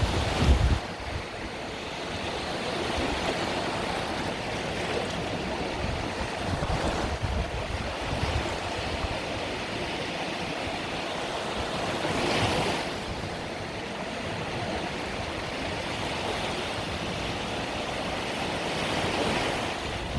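Mediterranean sea waves breaking and washing on the shore, in a continuous wash with a louder surge right at the start, another about twelve seconds in, and a smaller one near the end. Low wind rumble on the microphone at the very start.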